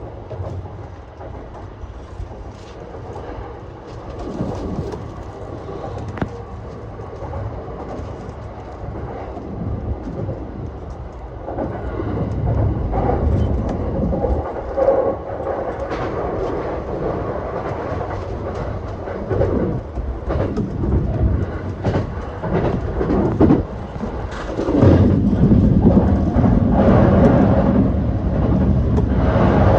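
E235 series electric commuter train running, heard from inside the car: a steady low rumble with scattered sharp clicks from the wheels on the track. It grows louder about 12 seconds in and again about 25 seconds in.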